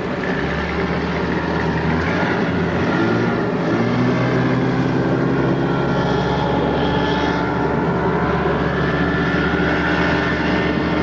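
A patrol boat's engines running steadily, the engine note shifting and rising a few seconds in as the engines are manoeuvred.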